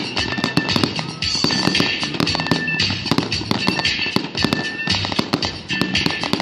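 Fireworks going off in quick succession, many sharp pops and crackles several a second, over music playing throughout.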